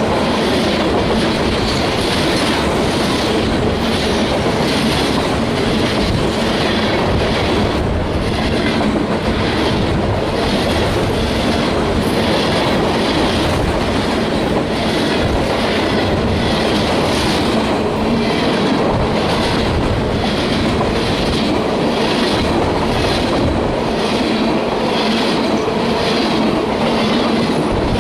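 Freight cars of a CSX freight train rolling past, with a steady rumble and the wheels clicking over the rail joints a little faster than once a second.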